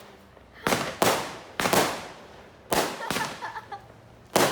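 Fireworks going off: about seven sharp bangs at uneven intervals, some in quick pairs, each trailing off with an echo.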